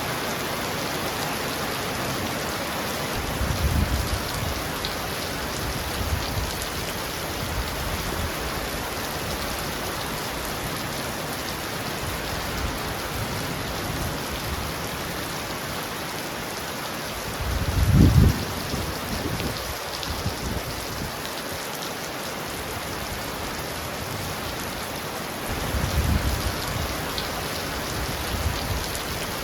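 Heavy rain pounding on a roof in a steady hiss, with low rumbles of thunder about four seconds in, again louder about eighteen seconds in, and once more near the end.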